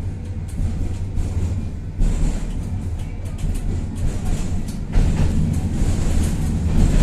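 Tatra-Yug K1M tram running, heard from inside the car: a steady low rumble, with sudden louder jolts about two and five seconds in.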